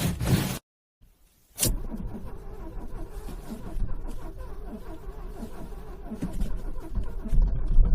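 Car starter motor cranking a cold engine in freezing weather. The sound cuts to silence for about a second near the start, then resumes with a sharp onset and grows louder near the end.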